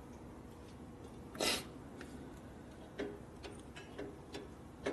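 Light, irregular clicks, about seven in the last two seconds, typical of a motorcycle's hydraulic brake lever being pumped to build line pressure between bleeds of a system still full of air. A short breathy hiss comes about a second and a half in.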